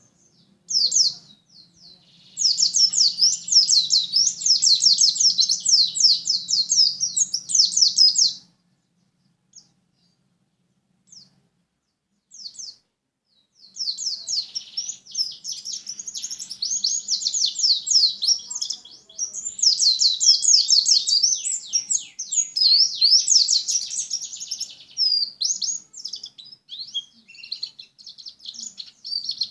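White-eye (pleci) singing: long, fast runs of high chirping notes, breaking off about a third of the way in for several seconds with only a few single notes, then starting again and running on.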